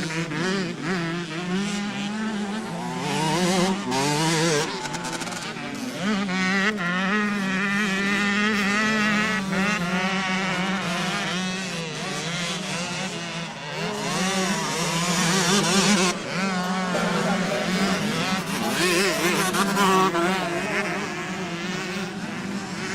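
Several motocross motorcycle engines revving hard and falling away as the bikes race around the track, their pitch rising and dropping constantly over a steady low drone.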